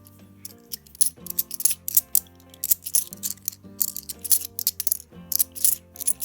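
£2 coins clinking and clattering against each other as they are handled and sorted, sharp irregular clinks several times a second, over background music with steady held notes.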